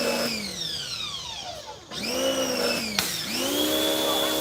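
Electric pressure washer's motor winding down, then spinning back up about two seconds in and starting to wind down again near the end, as the spray trigger is released and squeezed. A sharp click about three seconds in.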